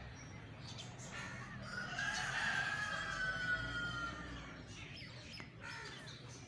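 Birds calling: one long drawn-out call about two seconds in, lasting about two seconds and falling slightly at the end, with short calls before and after it.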